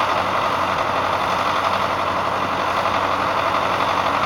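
A steady engine-like drone with an even hiss and a low hum, unchanging throughout.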